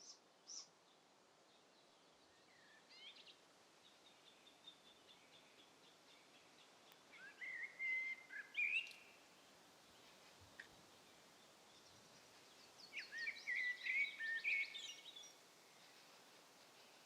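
Wild songbirds singing: scattered high chirps, then two louder, quick phrases of notes, one about seven seconds in and another about thirteen seconds in, over a faint steady hiss.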